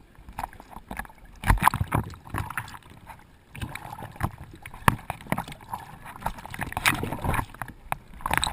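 Water splashing and sloshing in irregular bursts, several sharp splashes among a steady wash of noise.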